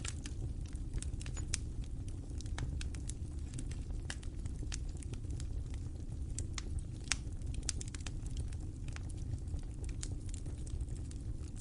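Wood fire burning in a fireplace: a steady low rumble of the flames with many irregular sharp crackles and pops, one of the louder pops about seven seconds in.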